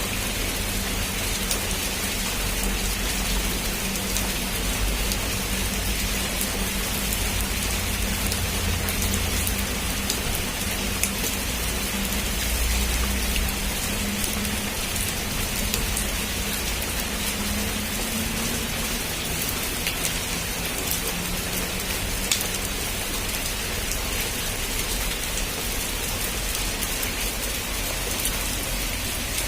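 Heavy rain falling steadily, with scattered drops ticking and a low rumble that eases off about halfway through.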